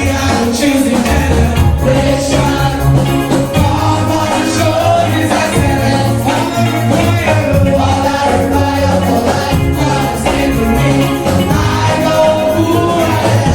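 Gospel vocal group singing with band accompaniment: several voices over bass and a steady drum beat.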